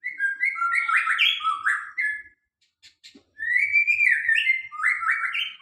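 A songbird singing two long phrases of quick notes that step up and down in pitch, with a pause of about a second between them.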